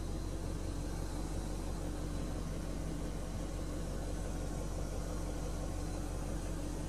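BMW Alpina B10 V8S's 4.8-litre V8 idling steadily, an even low hum with no revs.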